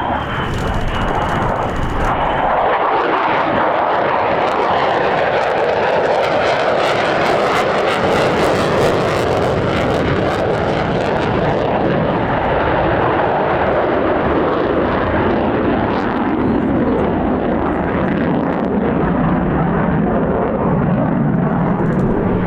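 Low flypast of a heritage flight formation of an F-35A Lightning II with a P-51 Mustang and a P-47 Thunderbolt: a loud, steady roar of aircraft engines that sinks lower in pitch near the end as the aircraft pass and draw away.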